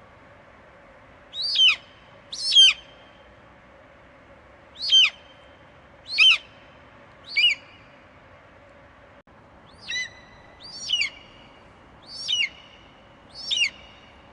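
An eagle screeching: nine short, high calls, each sliding downward in pitch, coming one to two and a half seconds apart over a faint steady hiss.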